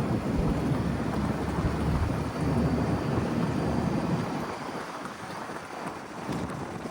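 Wind buffeting the microphone: an uneven low rumble with a hiss above it, rising and falling in gusts, easing a little about five seconds in.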